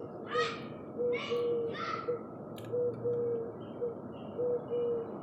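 Wild birds calling: three harsh, raspy calls in the first two seconds, over a low, steady-pitched call repeated in short and longer notes throughout.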